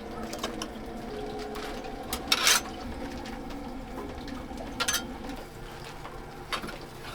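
Whole ducks being moved around in a wood-fired roasting oven: a few sharp clatters a second or two apart over a steady hiss and hum.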